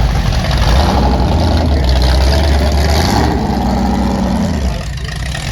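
Ford GT40-era V8 sports car engine idling at low revs, easing off near the end.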